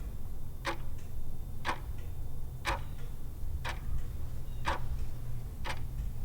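Countdown clock sound effect ticking once a second, six ticks in all, over a steady low hum.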